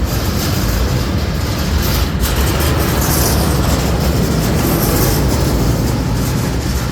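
Garbage truck running close by: a loud, steady mechanical noise with a heavy low rumble.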